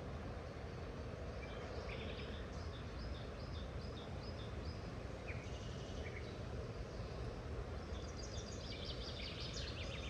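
Small birds chirping in runs of short high notes, with a denser flurry of calls near the end, over a steady low rush of flowing water.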